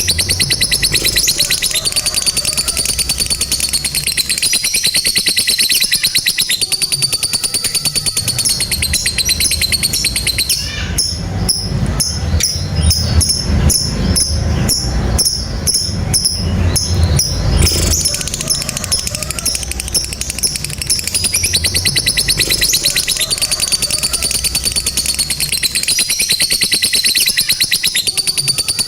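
Lovebirds giving the long, fast, high-pitched trilling chatter known as ngekek panjang. Around the middle it turns into a coarser, evenly pulsed chatter over a low rumble, then the rapid trilling returns.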